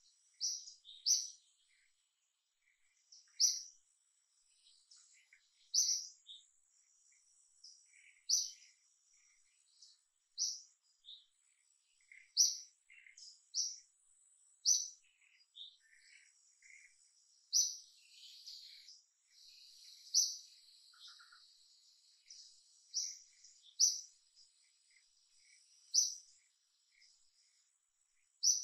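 Birds chirping: a short, high call repeated every couple of seconds, with scattered softer chirps between, over a faint steady insect drone.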